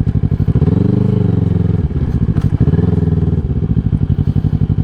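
150 cc motorcycle engine running at low revs, with two short rises in revs, one about a second in and one around the three-second mark.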